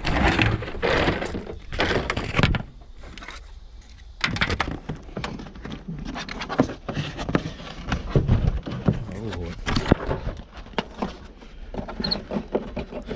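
Clatter of hand tools and car parts being handled: a dense run of small knocks, clicks and scrapes, loudest in the first two seconds, with a short lull about three seconds in.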